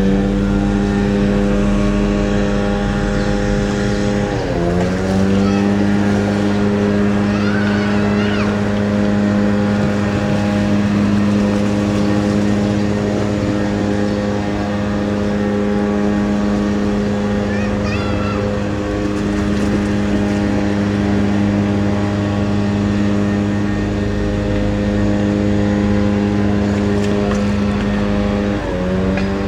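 Ferry engine running with a steady, loud, droning hum. The pitch dips briefly about four seconds in and again near the end.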